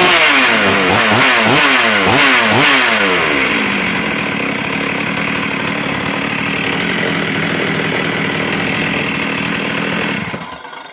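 Freshly overhauled Stihl MS 382 two-stroke chainsaw blipped up and down through the revs several times, then idling steadily before it cuts out near the end.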